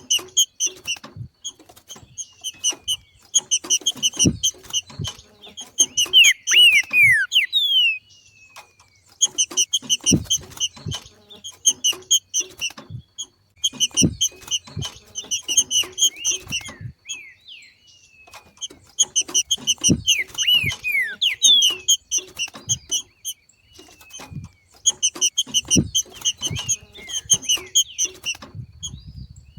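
Green-winged saltator (trinca-ferro) giving its rapid chattering 'macheado' call in repeated bouts of two to three seconds, with a few falling whistled notes, and low knocks among them.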